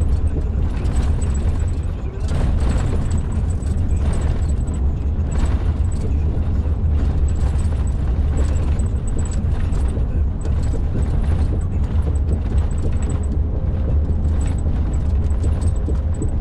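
Truck cab interior while driving on an old concrete-slab motorway: a steady low drone of engine and road rumble, with repeated thumps every second or so as the tyres cross the slab joints.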